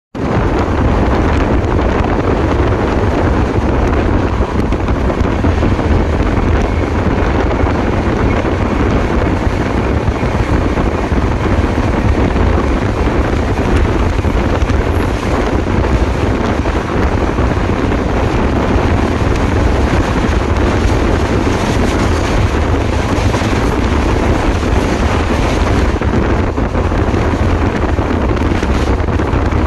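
Steady rush of wind and track rumble heard from the window of a passenger train running at speed, with wind buffeting the microphone.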